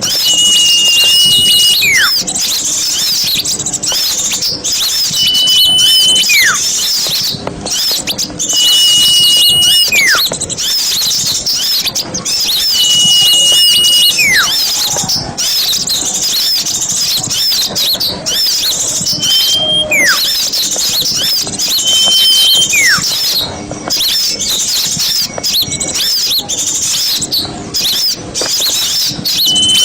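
Small songbirds singing: a dense, high, continuous twittering chorus, with a repeated whistle, a held high note ending in a falling slide, about every four seconds.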